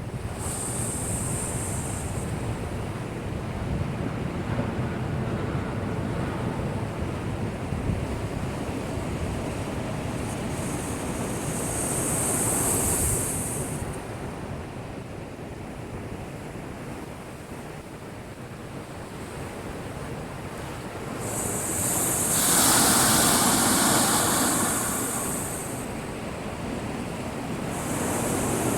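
Heavy typhoon swell breaking against a concrete breakwater: a steady rush of surf that swells into louder crashes, one about halfway through and the biggest, lasting several seconds, later on, with another building near the end.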